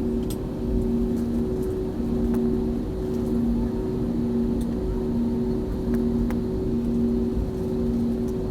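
Airbus A320 cabin noise: a steady engine and airflow rumble, with a droning hum that pulses on and off about once a second.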